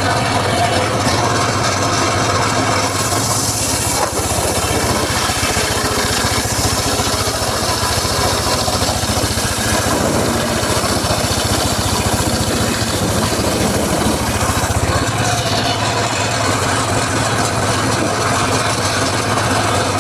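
Engine-driven mobile circular saw running steadily while sawing teak. From about three seconds in until about fifteen seconds the sound gets heavier and fuller, as the blade works under load through the wood.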